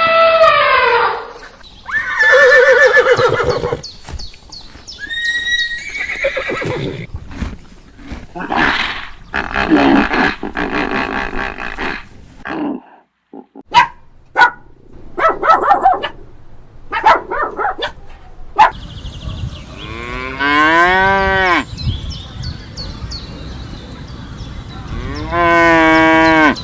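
Farm animals calling one after another, among them cattle mooing, with two long moos near the end.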